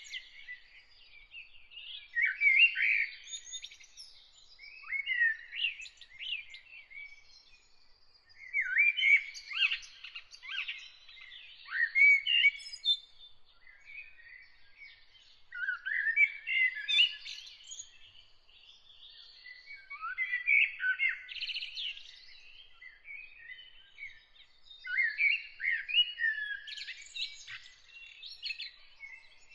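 A songbird singing in separate phrases a few seconds apart, each a second or two of quick, varied, sliding notes. A faint steady high tone runs underneath.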